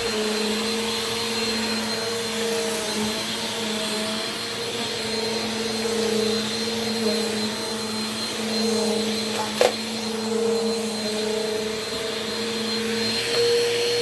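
Bissell PowerForce Compact Turbo upright vacuum cleaner running on carpet: a steady motor hum with a thin high whine over the rush of air. A single sharp click about two-thirds of the way through.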